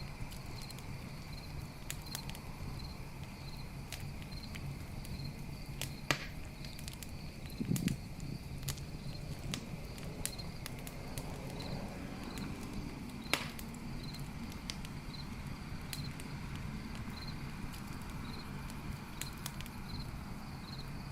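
Campfire crackling with scattered small pops and two sharper snaps, about six and thirteen seconds in, over a low steady rumble of the fire. Behind it runs an even, repeating chirp of night insects such as crickets.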